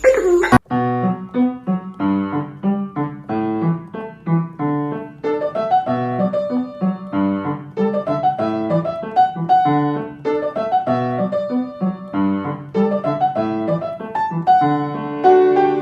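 Piano music: a melody played over lower chord notes at an unhurried, even pace.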